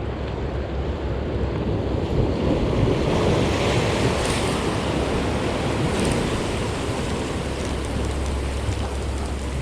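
Ocean surf breaking and washing over a rocky shore, swelling to its loudest from about two to five seconds in, with wind rumbling on the microphone.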